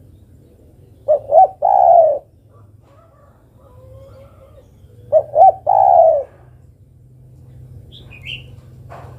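Spotted dove (derkuku) cooing, the female's call to a male: two phrases about four seconds apart, each two short notes and a longer one. A faint high chirp from a small bird follows near the end.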